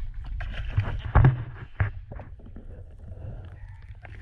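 Several knocks and thumps against a small boat, the loudest about a second in, over a steady low rumble.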